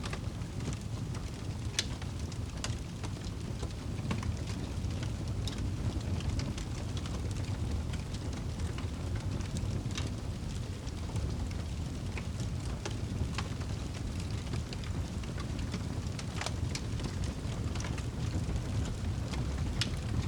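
Fire crackling: a steady low rumble of burning with sharp pops and snaps at irregular intervals.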